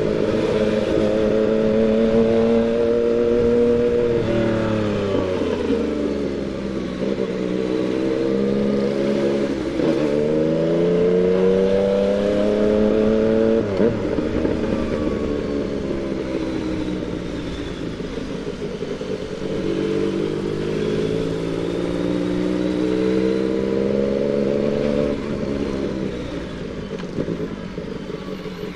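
Yamaha MT-09's inline three-cylinder engine pulling at modest revs while riding. Its pitch climbs steadily through each gear and drops sharply at changes about ten and fourteen seconds in, and it eases off again near the end.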